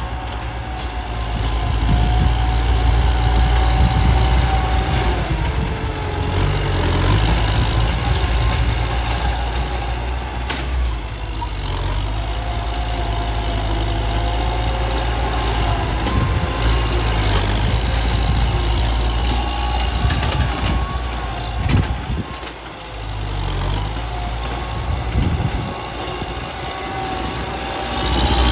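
Heavy truck engine running steadily under load, with a wavering whine above its low rumble and a few short sharp noises.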